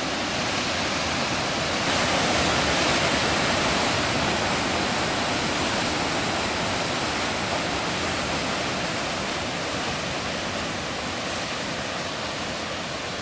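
Waterfall rushing in a steady, full roar of falling water, swelling slightly about two seconds in.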